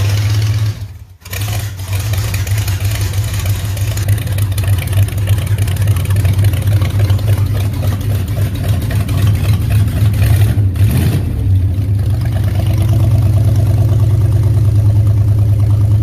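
Engine of a 1947 Ford with FiTech electronic fuel injection idling steadily just after a cold start. The sound drops out briefly about a second in.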